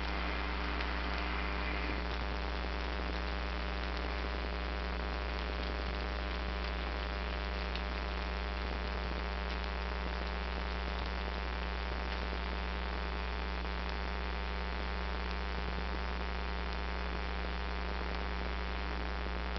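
Steady electrical mains hum with a low buzz and a layer of hiss, unchanging throughout.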